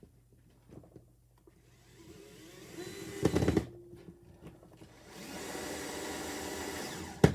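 Power drill/driver running twice, driving a screw into plywood; the first run winds up and bites with a few loud knocks. Sharp clacks near the end as the screw seats.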